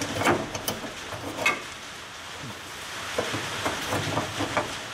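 Heavy storm rain on the shop building, a steady hiss, with a few light clicks and taps from hands working a fastener.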